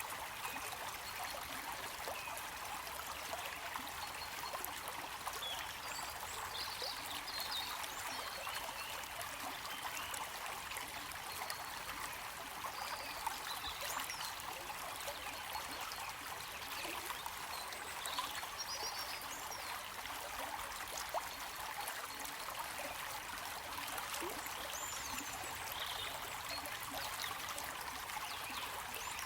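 Running water of a small stream, a steady even trickling and flowing, with a few faint high chirps now and then.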